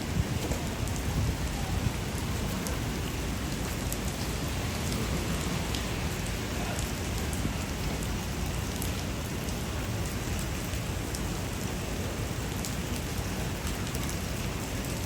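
Heavy rain falling and splashing on hard surfaces: a dense, steady hiss with scattered sharp drop ticks.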